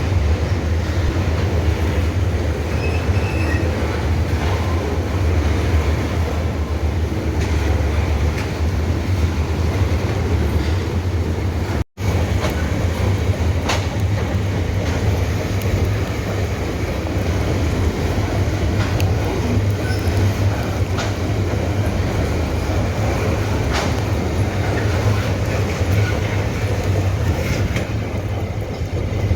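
Freight train of ore wagons rolling past on the track: a steady low rumble with scattered wheel clacks.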